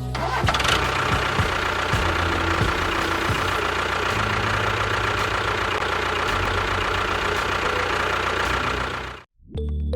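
Small engine of a DIY mini tractor running steadily. It cuts off abruptly about nine seconds in, and music starts just after.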